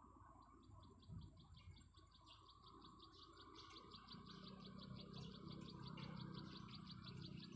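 Faint insect chirping in a rapid, even pulse, about seven chirps a second, over a steady high hiss. A low hum grows in from about halfway.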